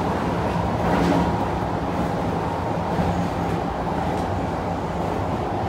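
Interior running sound of a Kintetsu 1233 series electric train: a steady rumble of wheels on rail with low hum. A faint high inverter tone from the VVVF traction equipment fades about a second and a half in.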